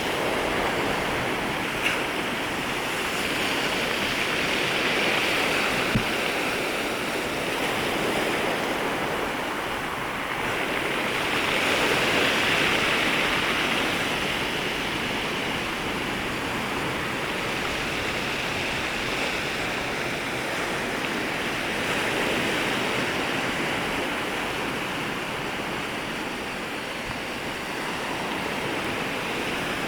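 Ocean waves washing in at the shoreline, a continuous hiss of surf that swells gently every several seconds, with a couple of brief faint clicks early on.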